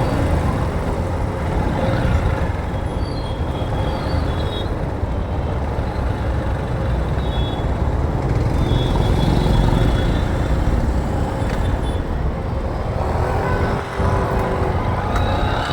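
Road and traffic noise heard from a moving motorbike in city traffic: a steady low rumble throughout, with a few brief high squeals or tones and a stronger one near the end.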